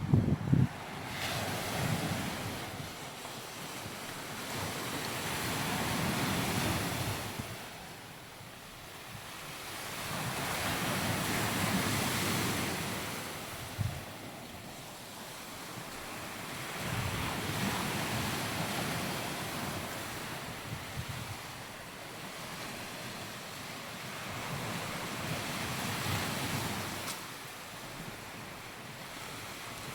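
Surf breaking and washing up a sandy beach, swelling and fading about every five to six seconds, with a short low rumble right at the start.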